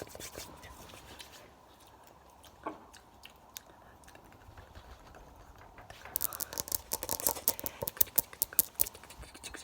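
Close-miked ASMR trigger sounds: scattered soft clicks, a quieter stretch, then from about six seconds in a fast run of sharp, loud crisp clicks.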